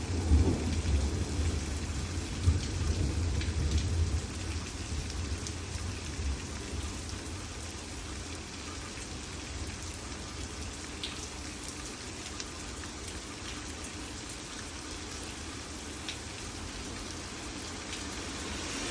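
Steady summer rain falling, with scattered drops ticking on a surface close by. A low rumble is heard during the first few seconds, then fades.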